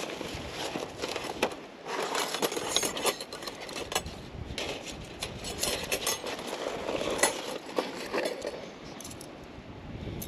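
Irregular clinks, knocks and scrapes of objects being handled.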